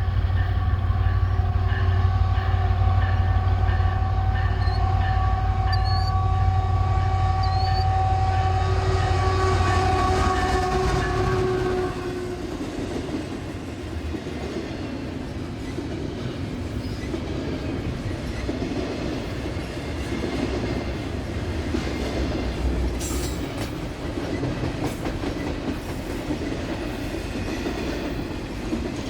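Diesel freight locomotive passing, its horn sounding steadily over the heavy engine rumble for about the first eleven seconds. Then the horn and engine drop away and the freight cars roll by with a steady wheel clatter on the rails.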